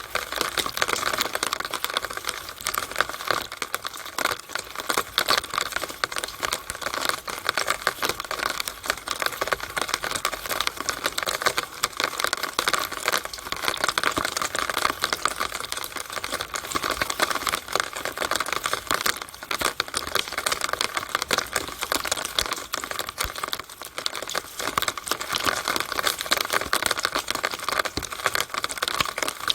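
Rainwater running down a downspout on a rainy day, a steady, dense crackle of drops and trickling splashes.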